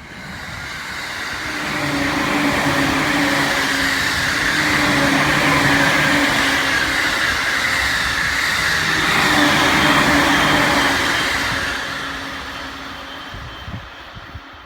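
Electric commuter train passing at speed. It grows louder as it approaches and runs loud for about ten seconds with a steady low hum over the rolling noise, then fades away.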